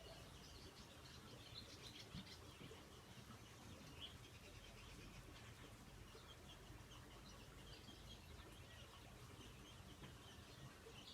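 Faint, scattered bird chirps over a low, steady outdoor hiss.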